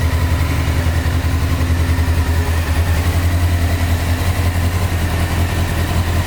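Honda CBR600F's inline four-cylinder engine idling steadily, with no revving.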